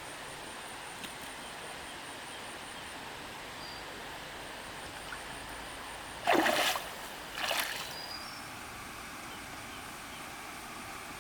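Two short splashes of water about a second apart, the first longer and louder, over a steady background of insects chirping in a rapid, even pulse.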